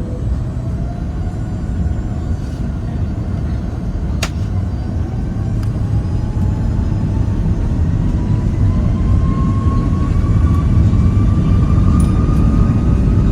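Airbus A330 engines heard from the cabin: a heavy rumble with a whine that rises steadily in pitch as the engines spool up, typical of the takeoff roll. A single sharp click comes about four seconds in.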